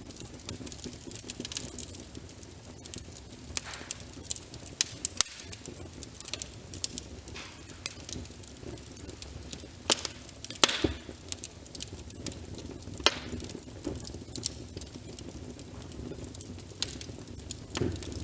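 Wood fire crackling: irregular sharp snaps and a few louder pops, over a soft steady hiss of rain.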